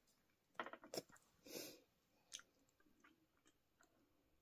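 Faint chewing of cheese fries, with a few soft clicks of a fork against the plate.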